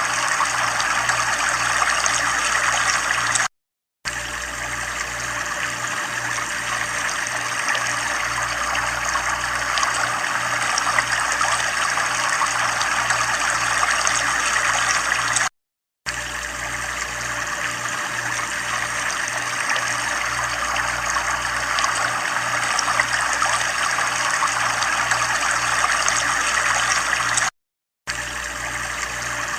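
Running water trickling in a steady, even flow. It drops out to dead silence for about half a second three times, roughly every twelve seconds.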